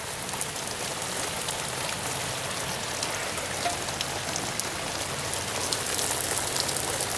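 Heavy rain falling steadily, a dense hiss with many fine drip ticks of drops striking surfaces.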